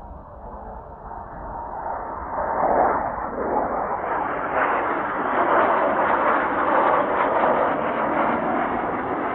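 Blue Impulse Kawasaki T-4 jet trainers flying past, their jet engines making a rushing noise that grows louder over the first few seconds and then holds loud as the jets come close.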